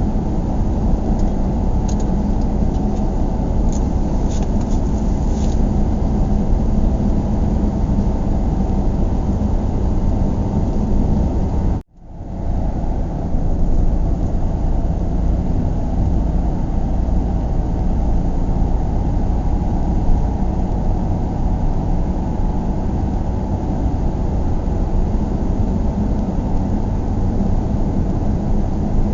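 Steady low rumble of a car driving, tyre and engine noise. About twelve seconds in it cuts out for an instant and fades back up.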